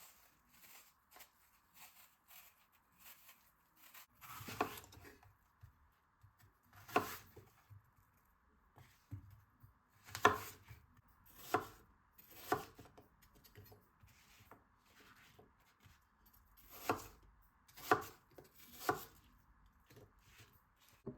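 Knife chopping on a cutting board: about ten sharp knocks at uneven intervals.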